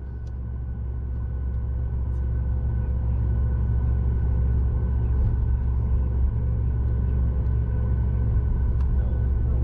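Cabin noise inside a Boeing 737 MAX 8: a steady low rumble with faint, constant whining tones above it, growing louder over the first few seconds and then holding level.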